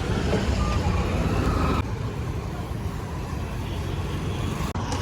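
Motorcycle riding along a road: a steady rumble of engine, road and wind noise. It drops abruptly about two seconds in and shifts again near the end.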